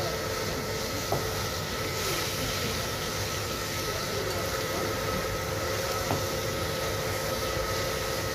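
Chapli kababs frying in a wide pan of hot oil: a steady sizzle, with a steady hum behind it and a couple of light knocks.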